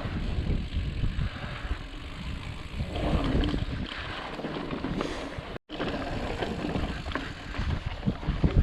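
Full-suspension mountain bike (Ibis Ripley) rattling and knocking over rough, bumpy rock, with a steady low rumble of tyres and wind buffeting the microphone. The sound cuts out for an instant a little past halfway.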